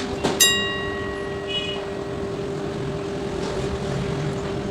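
A small metal object strikes once with a sharp clink that rings on with clear high tones for about a second, a fainter ring following shortly after. Under it a steady mechanical hum drones.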